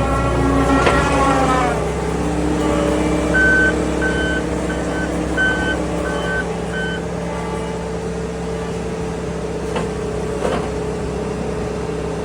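New Holland C362 skid steer's diesel engine running steadily, with its backup alarm beeping six times a few seconds in as the machine reverses.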